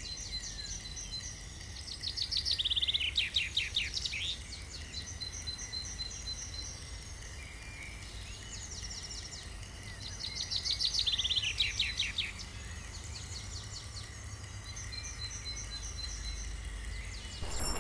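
Small birds singing: steady runs of high, evenly repeated chirps, with two louder rapid trills of about two seconds each, several seconds apart. A low steady rumble runs underneath.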